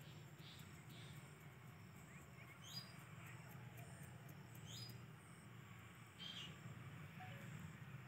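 Near silence: a faint steady low hum with a few brief, high bird chirps scattered through it.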